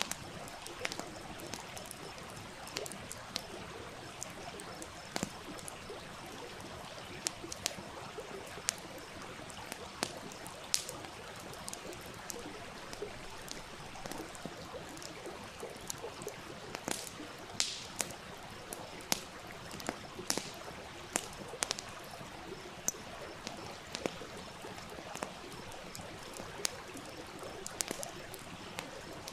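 Wood campfire crackling, with sharp irregular pops several times a second, over the steady murmur of a flowing stream.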